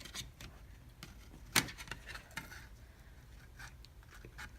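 Light clicks and taps of plastic parts being handled as the Nest thermostat's wall plate is fitted, with one sharp click about one and a half seconds in.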